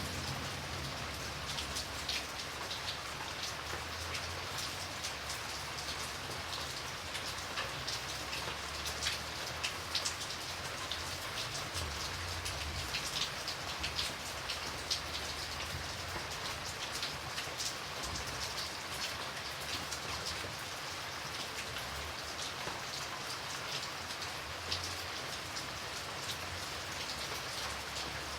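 Steady rain falling, with many individual drops ticking sharply on a hard surface over a continuous hiss, and a low, uneven rumble underneath.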